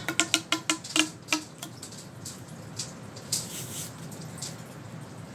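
Mini silicone pop-it fidget toy being pressed: a quick run of about eight popping clicks in the first second and a half, then a few softer clicks and handling rustles.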